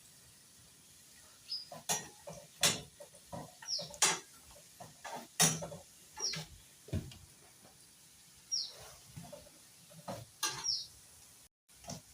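Irregular clinks and knocks of a cooking utensil against a frying pan, about a dozen over several seconds, as pieces of food are turned in it. Short high falling chirps come every two seconds or so.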